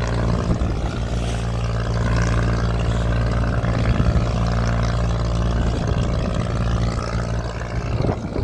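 Boat engine running steadily at a constant speed, a low even hum with a hiss of water and wind over it.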